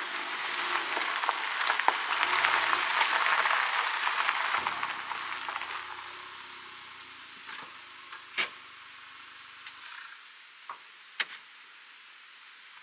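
Food sizzling as it fries in a pan, loud for the first few seconds and then dying down, with a few sharp pops of spatter later on.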